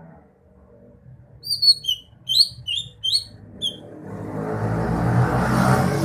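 A cucak hijau (green leafbird) singing a quick run of about eight sharp, high whistled notes, each sliding in pitch, over about two seconds. Near the end a loud low rumble swells up and covers the song.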